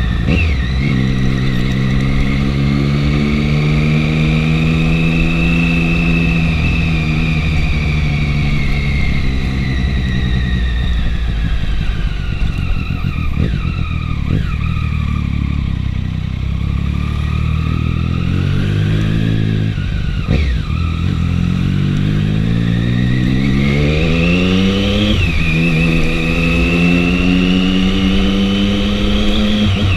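Triumph 675 motorcycle's three-cylinder engine under way, its revs climbing and falling as the bike accelerates and eases off, with brief breaks in the note at gear changes near the start, about two-thirds through, and again shortly after. A steady low rumble sits under the engine.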